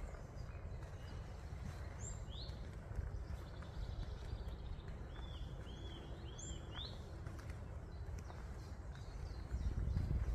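Woodland birds calling: a few sharp falling notes early on, then a quick run of four short arched notes, then more sharp calls, over a steady low rumble.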